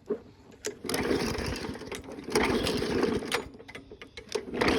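Lawnmower engine being cranked by its pull-starter in about three quick pulls, each a rasping spin of about a second; it does not catch and run, after its spark plug was fouled with oil.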